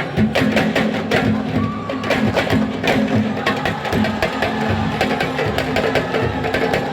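Music with fast, dense drumming: many quick, sharp strokes in a steady stream over a sustained low tone.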